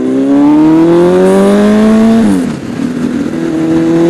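Honda CBR1000RR Fireblade's inline-four engine accelerating hard: its pitch climbs for about two seconds, drops abruptly at an upshift, then climbs again in the next gear.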